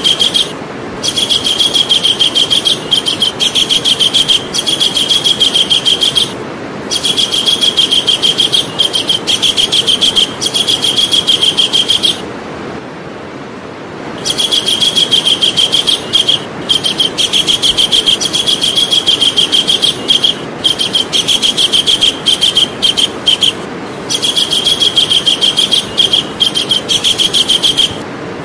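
Javan kingfisher calling: a loud, fast rattling trill of rapidly repeated high notes, given in long bouts with short breaks and one pause of about two seconds midway.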